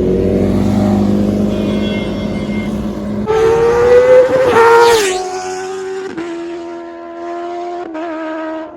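Honda CBR1000RR Fireblade inline-four engine running hard at high revs. Its note holds steady, then climbs and drops sharply in pitch as the bike passes about five seconds in, then settles to a steadier lower note.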